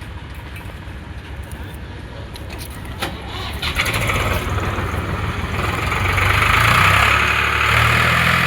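Tractor's diesel engine running with a low, even beat, then revving up and pulling harder from about four seconds in, with a whine that rises and is loudest near seven seconds. A single knock about three seconds in.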